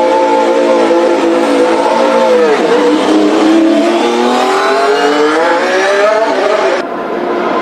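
Cadillac Formula 1 car's 1.6-litre turbocharged V6 hybrid engine, a Ferrari power unit, running at high revs. The pitch dips briefly, then climbs steadily for several seconds and drops suddenly near the end, as at a gear change.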